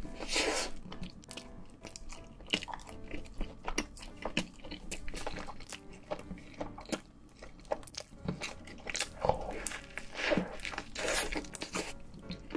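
Close-miked biting and chewing of a cheese-sauce-dipped cheeseburger: a big bite just after the start, then chewing with many short mouth clicks.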